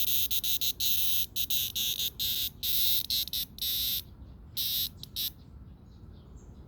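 Cicada buzzing loudly in rapid stop-start bursts as it is held in a pet's mouth, with a high rasping tone like a small motorized toy, falling silent a little over five seconds in.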